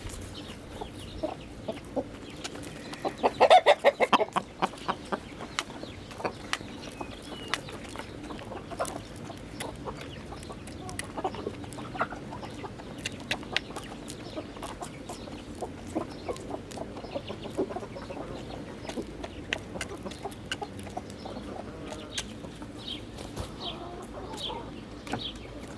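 Chickens clucking while they feed, with a scatter of short clicks and taps throughout. There is a louder burst of calls about three and a half seconds in, and a run of short high chirps near the end.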